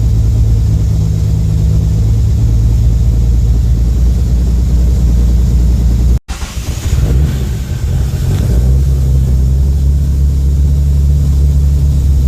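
Car engine idling after a cold start, with a newly fitted idle speed control solenoid. About halfway through the sound cuts out for an instant. It then runs unevenly for a couple of seconds before settling back into a steady idle.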